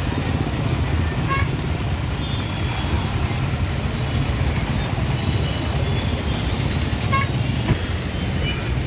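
Lorry engines running in road traffic, with a couple of short horn toots, about a second in and near the end.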